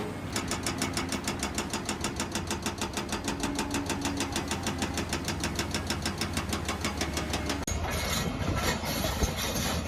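Large mining excavator's diesel engine running with a low hum and a fast, even clatter of about seven ticks a second. Near the end the sound changes abruptly to a rougher, noisier machine sound.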